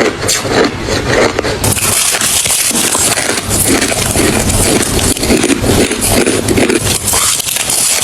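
A person chewing ice close to the microphone: continuous crunching and cracking of ice between the teeth.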